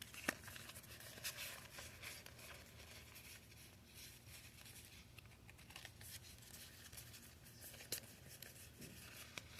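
Faint rustling and light ticks of trading cards and booster-pack wrappers being handled and sorted, with a sharper tick just after the start and another near eight seconds in.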